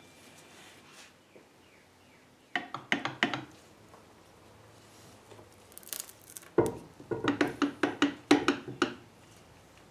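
Metal machine parts and hand tools being handled during disassembly: two bursts of quick knocks and clinks, the second longer and louder, from about two-thirds of the way through to near the end.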